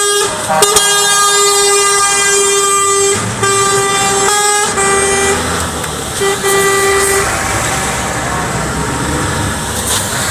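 Truck air horn sounding on one steady note: a long blast of about three seconds, then three shorter blasts. Truck engine noise follows in the last few seconds.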